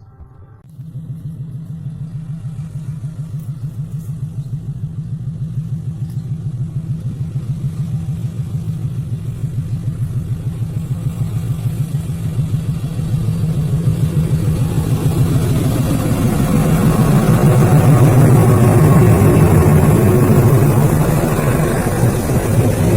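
KAI CC206 diesel-electric locomotive's engine throbbing with a rapid, even beat. It cuts in suddenly about a second in and grows steadily louder, and a rising rush of noise joins it over the last several seconds.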